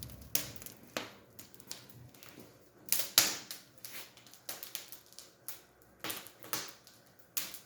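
Wood fire crackling in a brick fireplace, irregular sharp cracks and pops with a few louder cracks.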